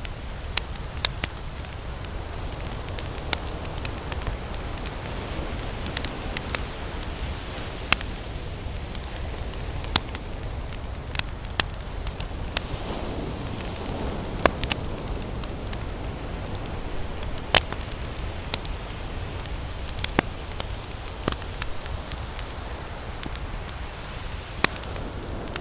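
A wood campfire crackling: irregular sharp pops and snaps over a steady low rumble.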